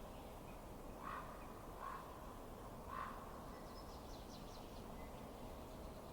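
Three short bird calls, about a second apart, over a steady low hiss, then a quick run of high chirps.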